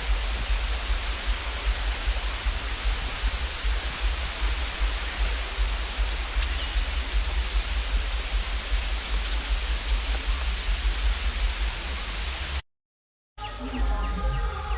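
Steady rushing roar of a waterfall with a deep rumble under it, cutting off abruptly near the end. After a brief silence, a quieter stretch with faint tones follows.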